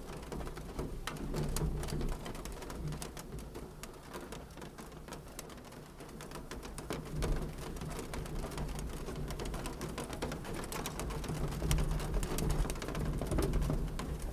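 Fireplace crackling, with many sharp pops and snaps over a low, steady rumble.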